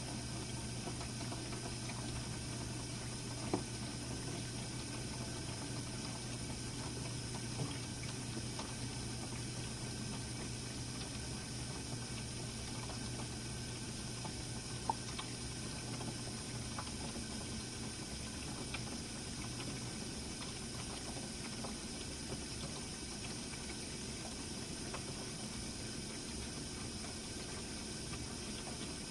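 Jenn-Air dishwasher running a Quick Wash cycle: steady water spraying and sloshing inside the tub over a low motor hum, which drops out about two-thirds of the way through while the water sound goes on. A few faint clicks are heard along the way.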